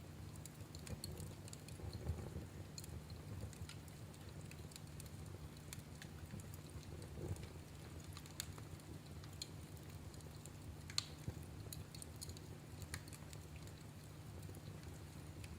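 Wood fire crackling in a fireplace: scattered small snaps and pops over a soft low rumble of the flames, with a sharper pop about 11 seconds in.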